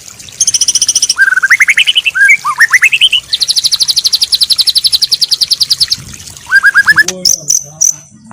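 Songbird singing from a birdsong training recording for white-rumped shamas: fast, high, evenly repeated trills alternating with runs of rising whistled notes, with a few sharp clicks near the end.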